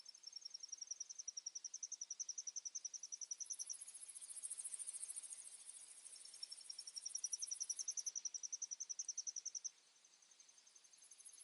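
Insects calling in a fast, even, high-pitched pulsing trill, with a second, higher and finer buzzing call over the middle and again near the end. The pulsing trill drops away about ten seconds in.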